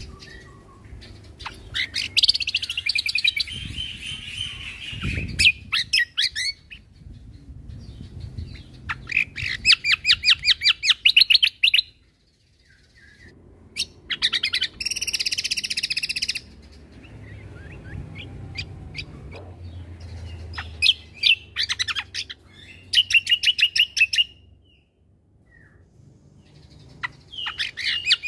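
Cucak kombo songbird singing in bursts of rapid, repeated high chattering notes, several phrases a few seconds long with short pauses between them.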